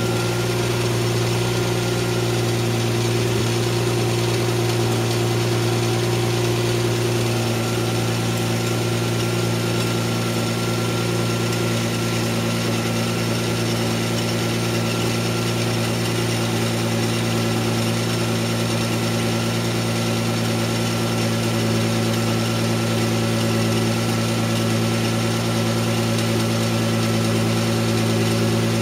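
A 1993 Mazda MX-3's 1.8 V6 idling steadily with a constant low hum, the stereo turned up. The owner is chasing a clacking, rattling noise under the hood, which he says is more noticeable each time the subwoofer hits and louder as the engine warms.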